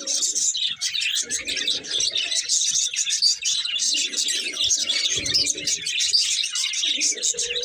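A pair of budgerigars chirping and warbling in a dense, continuous high twitter, with a few lower-pitched stretches of chatter mixed in.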